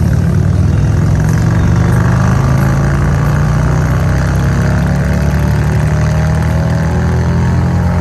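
Vehicle engine running steadily, its pitch climbing slowly through the second half.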